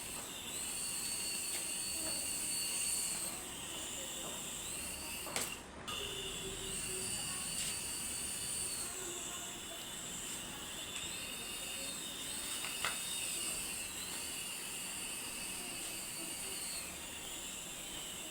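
Small electric motor of a toy helicopter whining steadily at a high pitch, the pitch dipping and rising every few seconds. A sharp click about five seconds in.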